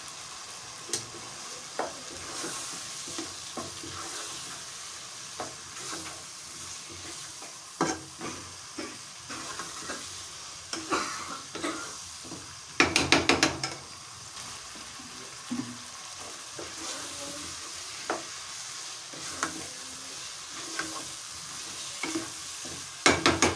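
Meat, onion and spice masala sizzling in a non-stick pot as it is fried, stirred and scraped with a plastic spoon, with scattered small clicks. A short burst of rapid loud clatter comes about 13 s in and again near the end. This is the bhuna stage, where the meat's own water is cooked off before water is added.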